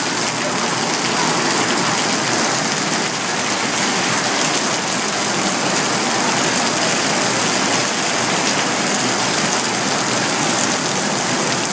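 Heavy rain falling steadily, an even hiss of drops that does not let up.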